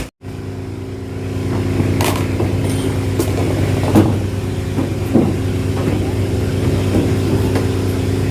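An engine running steadily at an even pitch, with a few short louder sounds over it about two, four and five seconds in.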